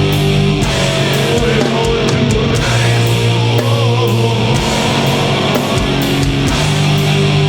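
Live heavy metal band playing loud: distorted guitars, bass and drums with cymbals crashing again and again.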